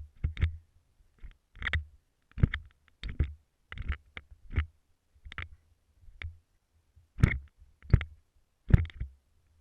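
An irregular series of about a dozen short knocks, each a low thump with a crunch on top, coming a little faster than once a second; the loudest are near the end.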